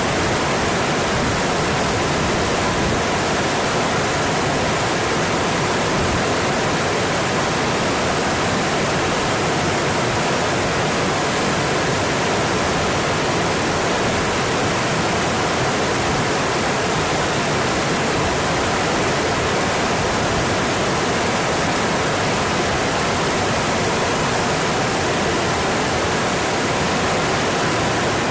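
Mountain stream rushing steadily over its bed, an even, unbroken wash of water noise.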